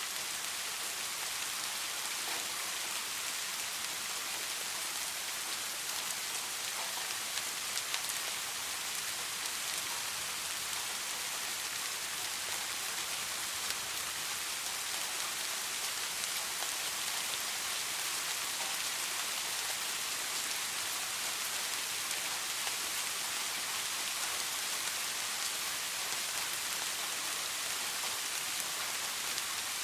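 Soft, steady rain: an even hiss of falling rain, with the odd louder drop ticking through.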